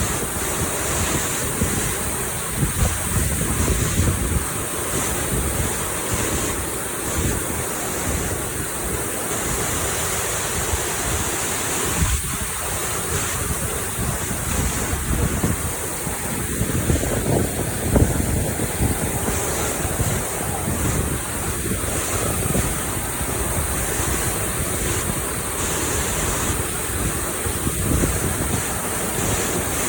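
Large waterfall's water crashing down, a steady rush, with wind buffeting the microphone in uneven low gusts.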